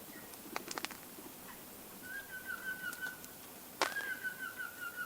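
A few quick sharp clicks, then two long, steady, high whistled notes, each lasting over a second with a slight warble; a sharp click comes just before the second.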